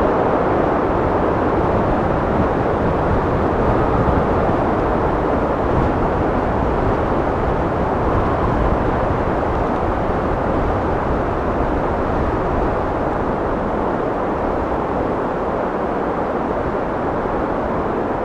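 Steady blowing wind, a full, even rush that swells a little about four seconds in and eases slightly toward the end.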